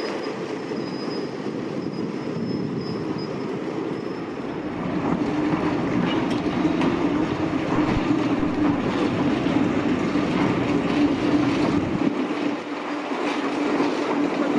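Diesel shunting locomotive 13201 running on the track, its engine heard with wheel and rail noise. About five seconds in it gets louder and a steady low tone sets in.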